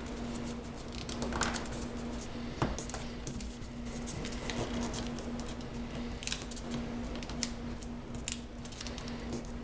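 A square of origami paper being folded and creased by hand: scattered crinkles and short scraping rustles as the corner flaps are folded in, over a steady low hum.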